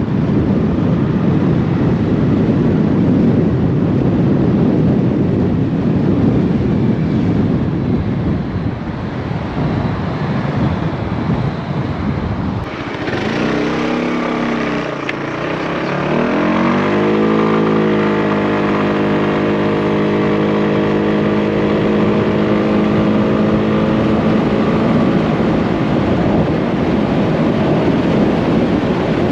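Wind buffeting hard on an action camera's microphone while riding a motorcycle. About halfway there is an abrupt change, and the motorcycle's engine comes through, rising in pitch as it accelerates over a few seconds and then running steadily at speed under a lighter wind rush.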